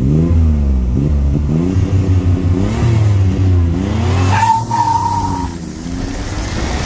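Audi S4 B5's 2.7-litre twin-turbo V6 heard from inside the cabin, revved up and down over and over about once a second, with a steady high tone for about a second near the middle.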